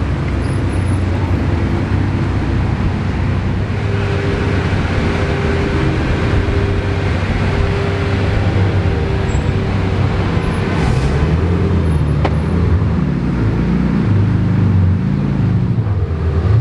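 Supercar engines running at low speed, a steady low engine note with traffic noise around it. A steady higher tone joins in the middle. Toward the end the engine pitch wavers up and down as the throttle is blipped.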